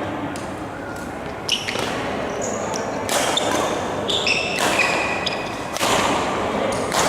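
Badminton rally on an indoor court: sharp racket hits on the shuttlecock and short high squeaks of court shoes on the floor, in an echoing hall.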